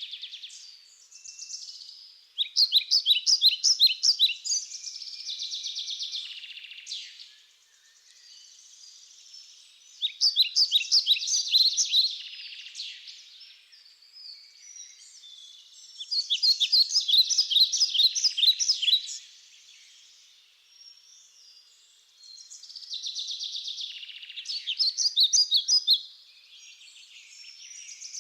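A bird singing: bursts of fast, high-pitched repeated chirping notes about every six or seven seconds, each lasting three to four seconds, with softer chirps in between.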